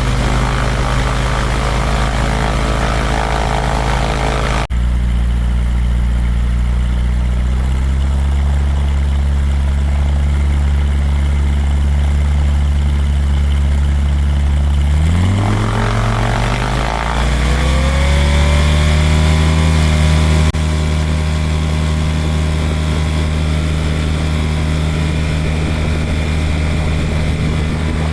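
Pipistrel Virus SW light aircraft's engine and propeller running up on the ground while held on the brakes; about halfway through the engine speed rises and then holds steady at a higher pitch. The run-up is a test of whether the freshly bled Beringer brakes hold at high power. The sound jumps abruptly twice where the footage is cut.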